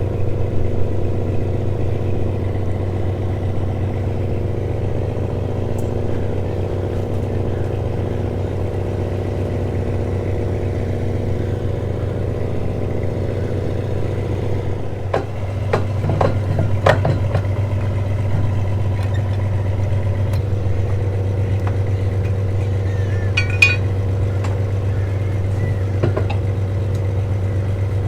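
A steady engine hum with a low, even drone. A few metallic clanks and clicks come over it about halfway through, and one sharper clink a few seconds later.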